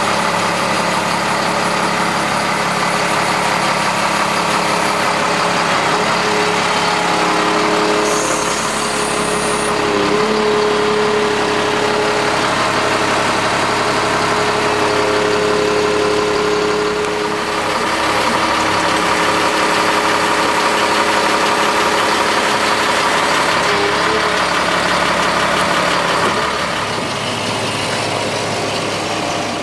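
2000 Sterling dump truck's diesel engine idling steadily, with a brief high hiss about eight seconds in.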